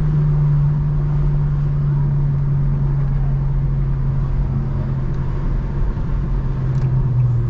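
Infiniti G35's 3.5-litre VQ35HR V6 with the mufflers removed, running under way with a steady exhaust drone whose pitch sags slowly, then drops lower near the end.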